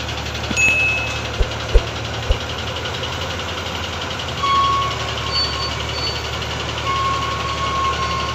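A heavy diesel engine running steadily at construction-site idle, with a few low thumps in the first couple of seconds and short high tones like vehicle horns about halfway through and near the end.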